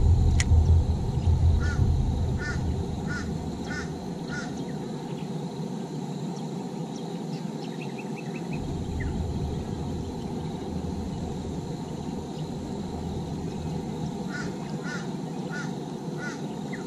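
A bird calling in two runs of four or five short calls about half a second apart, one a couple of seconds in and one near the end, over a steady background hiss.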